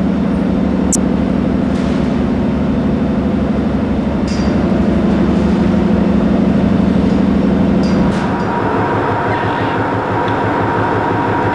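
Ship's engine-room machinery running loud and steady with a rhythmic throb. About eight seconds in the sound changes and a steady whine comes in over it.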